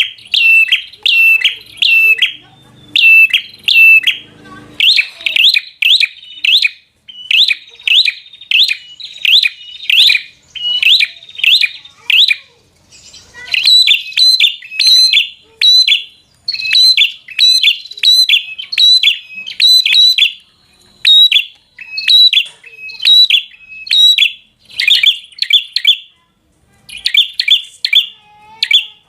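Prenjak (prinia) singing loudly: fast runs of sharp, high chirping notes in repeated bursts, broken by brief pauses.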